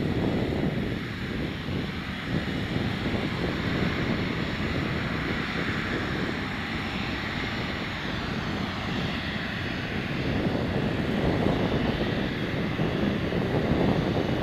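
Boeing 777-300ER's GE90 jet engines running: a steady rush of noise with thin high whining tones that fall in pitch about eight seconds in. The sound grows a little louder near the end.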